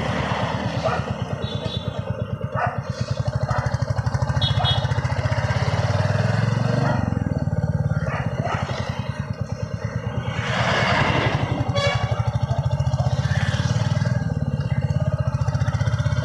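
Motorcycle engine running at a steady cruise with a fast, even low thudding pulse, under wind rush on the microphone; a louder rushing swell passes about ten seconds in.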